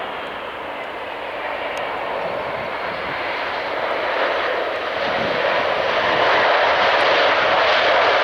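Airliner's engines: a steady rushing noise that grows louder about halfway through and then holds.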